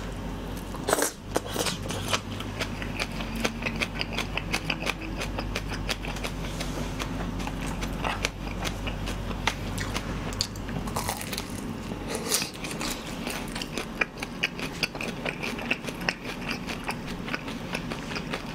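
Close-miked chewing of a mouthful of shredded green onions: many small, irregular crunches and mouth clicks.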